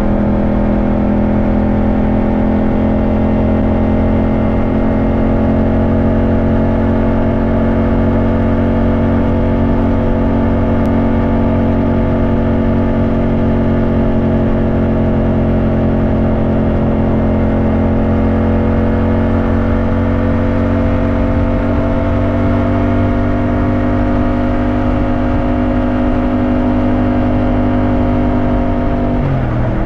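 Yamaha motorcycle engine running under way at nearly constant revs. The revs drop suddenly near the end.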